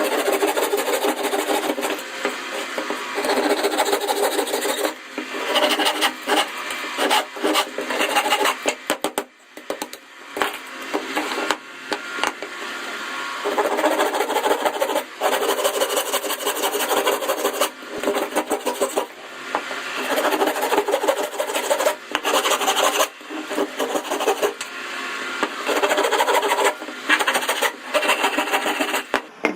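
Wood being worked by hand with a tool: uneven rasping, scraping strokes broken by frequent short knocks and clicks.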